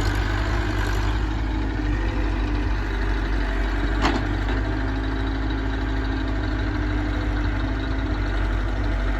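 Heavy diesel engine running steadily at idle, with one sharp knock about four seconds in.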